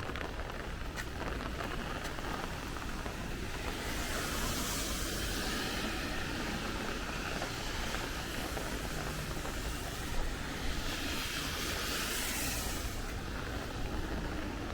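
Steady rain falling in a thunderstorm, with a low wind rumble underneath. Twice, about four and eleven seconds in, a louder hiss swells up and fades away over a couple of seconds.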